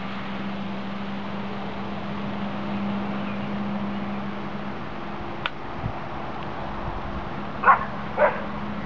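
A dog barking twice in quick succession near the end, over a steady low hum.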